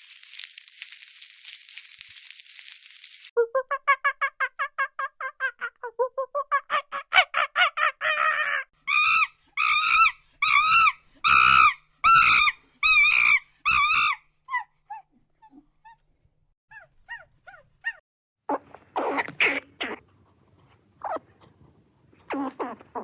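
A string of different animal calls one after another. A high hiss comes first, then a fast run of short pitched calls, then louder pitched calls about twice a second. Scattered faint chirps and a few short bursts follow near the end.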